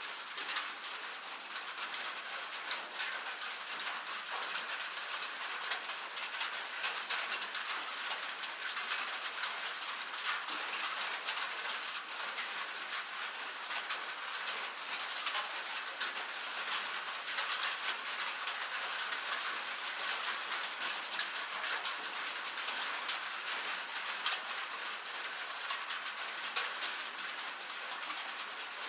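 Rain falling on a metal roof: a steady, dense patter of many small drop ticks with no let-up.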